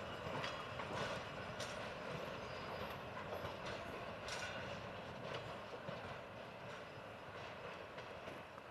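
Passenger cars rolling slowly away on jointed track, with irregular clicks from the wheels over the rail joints; the rumble slowly fades as the train recedes.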